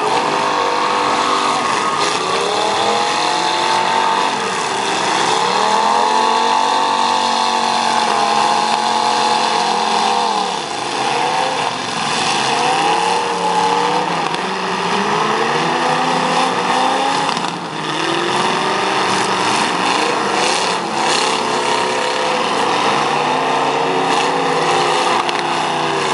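Several demolition derby cars' engines revving up and down over one another, pitches rising and falling as the cars accelerate and back off. A few sharp bangs of collisions cut through, the loudest about two-thirds of the way in.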